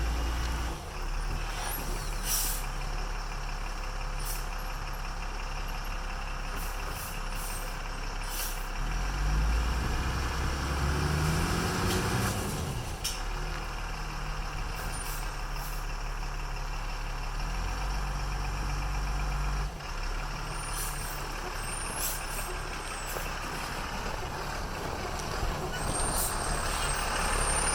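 Military expedition truck's diesel engine running under load at low speed, its pitch rising and then falling about halfway through, with scattered sharp knocks and clatters.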